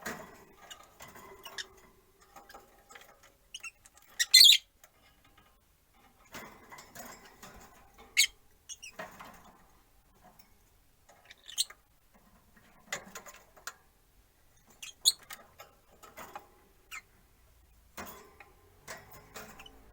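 Peach-faced lovebirds chirping and squeaking on and off, short high calls scattered through with one loud shrill call about four seconds in, and small clicks between them.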